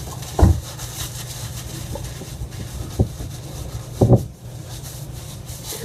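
Hands scrubbing shampoo through wet hair, a steady rubbing with a few louder, sharper strokes about half a second, three seconds and four seconds in.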